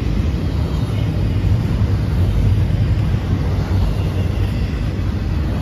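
Double-stack intermodal freight train rolling past close by: the steady, loud low rolling noise of well cars' wheels on the rails.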